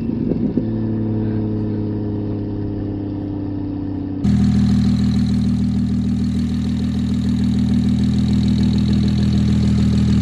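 Single-turbo BMW N54 straight-six idling steadily, with a few light knocks at the start. About four seconds in the sound jumps louder and fuller, still a steady idle.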